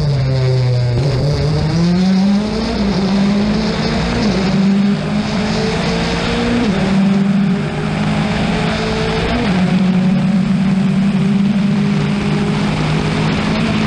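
Rally car engine under hard load. Its pitch sags briefly, climbs steeply, then stays high with short drops at each upshift, several times.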